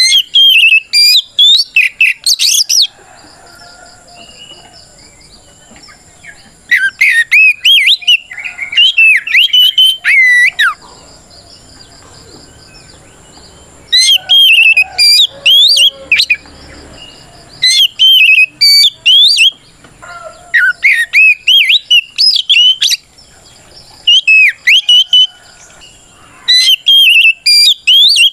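Oriental magpie-robin singing its loud, open 'ngeplong' song of rich whistled phrases with quick pitch glides, delivered in bursts of a few seconds with brief pauses between: the bird's challenge song calling out a rival.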